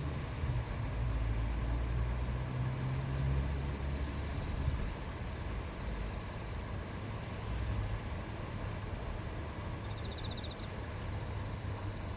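A river flowing with a steady rushing murmur and a deep low rumble underneath.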